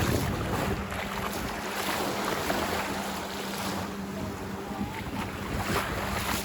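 Ocean surf washing onto a sandy beach, with wind buffeting the microphone. A steady low hum runs underneath.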